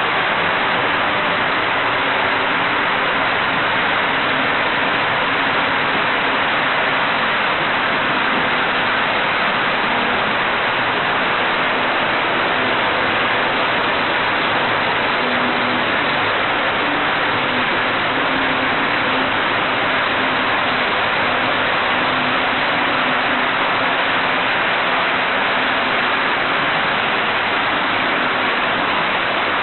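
HO-gauge model train running along its track: a steady, even rushing noise with a faint hum that comes and goes.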